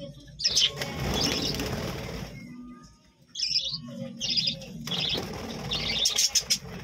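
A colony of budgerigars chirping in short, high calls, with a flurry of wing flapping during the first couple of seconds.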